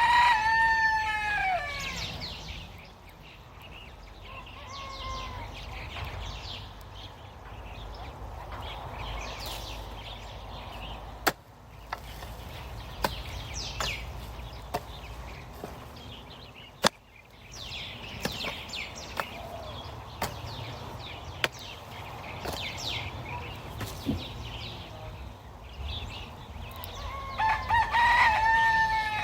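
A rooster crowing at the start and again near the end, with faint bird chirps in between. Two sharp clicks come in the middle.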